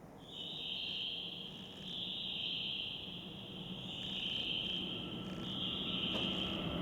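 Insects, crickets by their sound, trilling in four phrases of about a second and a half each. Near the end the low rumble of an approaching train begins to rise.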